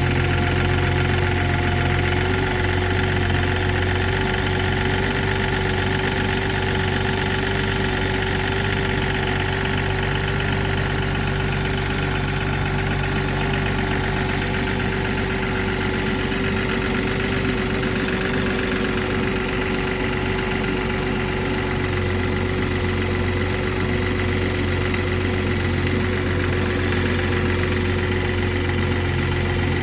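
BMW 440i's turbocharged 3.0-litre straight-six idling steadily on a cold start, the condition in which the owner reports a rattle (klappern).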